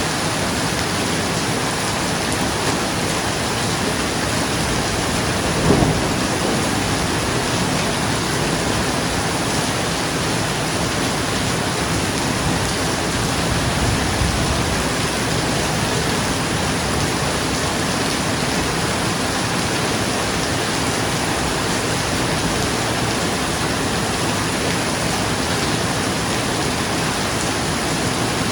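Steady rain falling on a roof, with a short clap of thunder about six seconds in and a low, softer rumble of thunder about halfway through.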